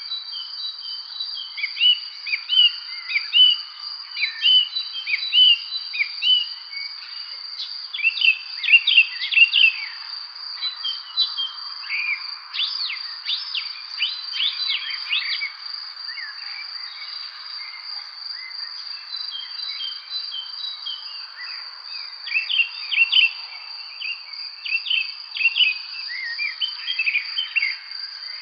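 Songbirds chirping and singing in quick bursts of short notes over a continuous high, steady insect trill.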